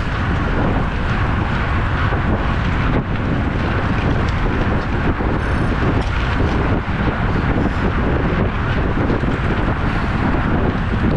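Wind rushing over the microphone of a camera carried on a moving road bicycle: a loud, steady rush with a heavy low rumble.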